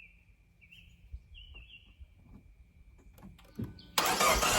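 A 2012 Fiat 500's starter cranking the engine about four seconds in, starting suddenly and loud after a sharp click. It is a no-start that the owners put down to lost oil prime. Birds chirp faintly before it.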